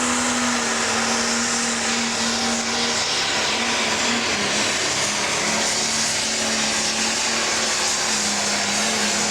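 Pro Stock pulling tractor's turbocharged diesel engine running hard at a steady high pitch.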